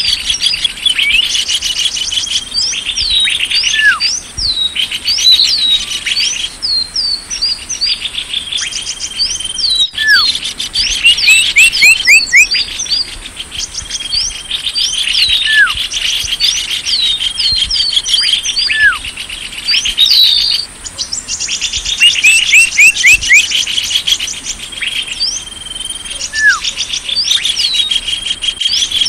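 Bird-lure recording of small songbirds: a dense, rapid chorus of chirps and twittering sweeps, with a falling whistled note every few seconds and a steady high-pitched tone running underneath.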